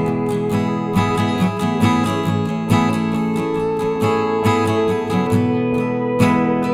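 Background music: acoustic guitar strumming chords at a steady rhythm, with no singing.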